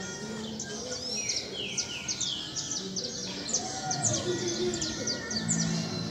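Small birds chirping and calling together: a rapid run of short, high chirps with some downward-sliding calls.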